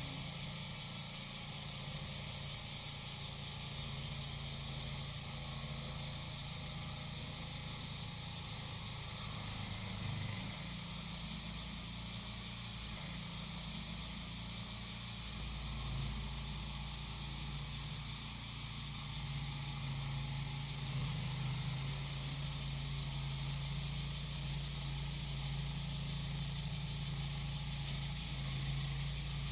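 Small engine of a grass-cutting machine running steadily, with cicadas droning continuously over it. The engine's low hum grows louder about halfway through.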